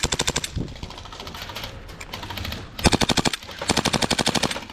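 Airsoft guns firing on full auto in three rapid bursts, the first at the start, the second about three seconds in, and the longest near the end.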